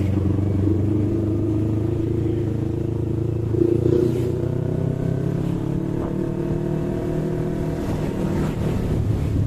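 Yamaha MT-25's parallel-twin engine running while the bike is ridden, its pitch rising gently in the middle of the stretch.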